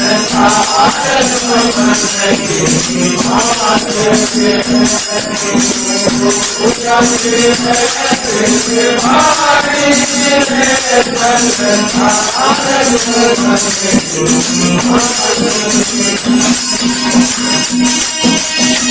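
A male singer performs a Hindi devotional bhajan over a steady drone, with hand percussion jingling and rattling throughout.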